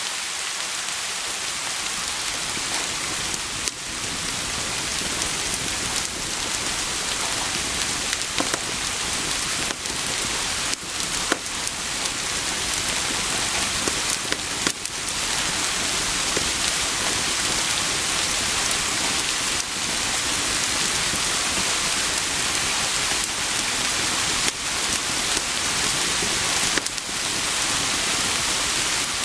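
Steady heavy rain, a dense even hiss, with a few scattered sharp ticks throughout.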